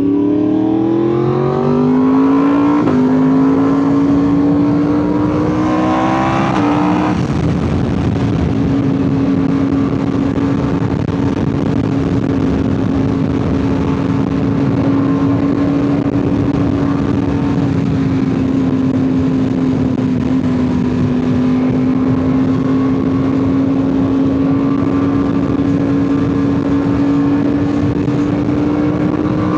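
2025 Yamaha R1's crossplane inline-four, breathing through an aftermarket SC Project titanium exhaust with an ECU flash, pulling hard under acceleration. The revs rise and drop sharply at two upshifts, about 3 and 7 seconds in, then the engine holds a steady cruising note with only slight rises and falls.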